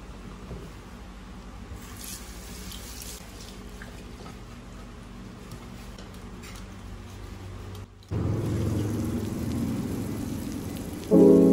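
Steady rushing noise like running water or rain, faint at first and louder from about eight seconds in; piano-like chords come in near the end.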